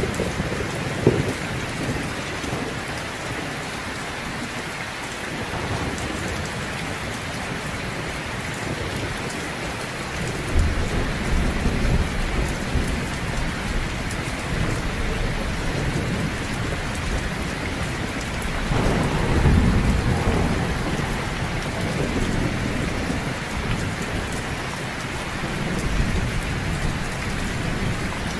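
Heavy rain falling steadily, with low rolls of thunder swelling up a few times: about ten seconds in, around twenty seconds, and near the end.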